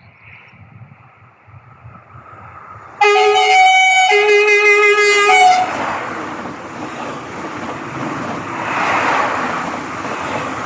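Horn of an SNCF Omneo Premium double-deck train sounding one loud blast of about two and a half seconds, with a short break after the first second, starting about three seconds in. The steady rushing noise of the passing train follows and runs loud to the end.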